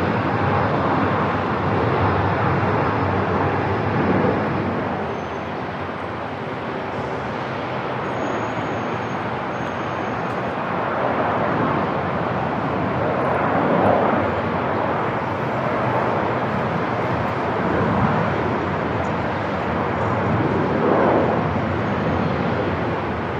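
Airport ambience: a steady wash of noise with aircraft engine sound, swelling and easing every few seconds.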